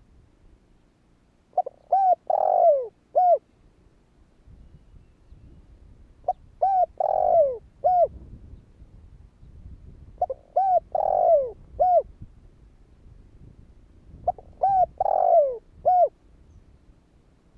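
Spotted dove cooing, its phrase repeated four times about every four seconds. Each phrase has two or three short coos, then one longer falling coo, then a short final coo.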